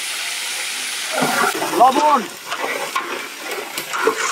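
Chopped green chillies dropped into hot oil in a large aluminium cooking pot, sizzling and spitting. A short voice-like call cuts in about a second in and is the loudest sound, then the frying settles to a lower crackle.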